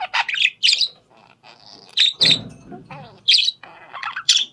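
Parrot chirping: a quick run of short, high calls, one after another.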